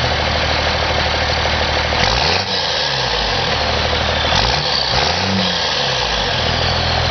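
1992 Dodge Cummins 5.9-litre turbo-diesel inline-six with a 4-inch straight-pipe exhaust, idling and then revved in short blips: once about two seconds in and twice more around four to five seconds in, before settling back to idle. A high whine tapers off near the end.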